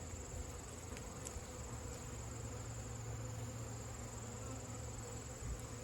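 Honeybees buzzing steadily around an opened hive, a low continuous hum.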